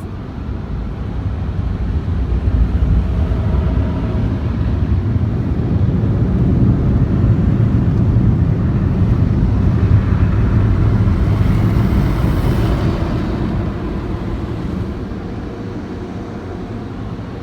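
Automatic car wash machinery heard from inside the car's cabin: a steady rushing roar that swells to its loudest in the middle and eases off near the end.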